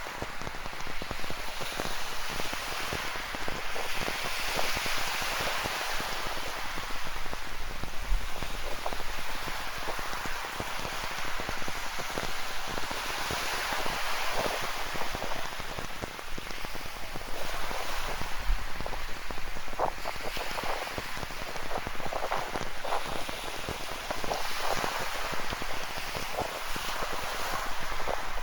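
Steady rain with many close drops ticking, over a wash of ocean surf that swells and fades every several seconds.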